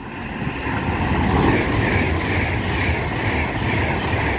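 Class 390 Pendolino electric train passing close by under hard braking: a steady, loud rush of wheel and rail noise that builds over the first second, with a faint pulse about twice a second.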